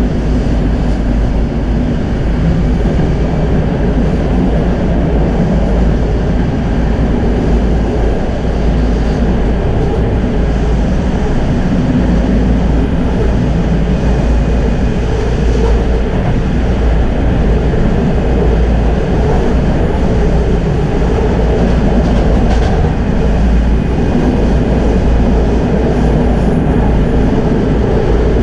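Tram running along its track: a loud, steady rumble of wheels on rails.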